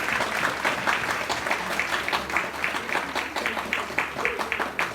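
Audience applauding at the end of a live show. The clapping is dense at first and thins in the second half to a few hands clapping at a steady pace.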